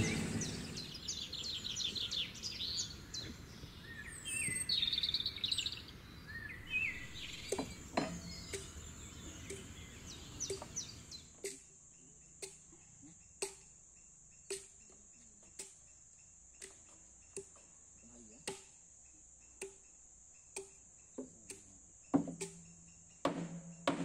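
Birds chirping over outdoor background noise. About eleven seconds in the background drops away, leaving soft sharp ticks about once a second over a faint steady high tone.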